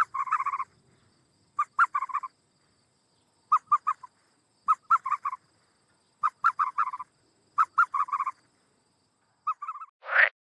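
A bird calling in repeated bursts of rapid rattling notes, about half a second each, a little over a second apart. Near the end a different, louder, rising call starts.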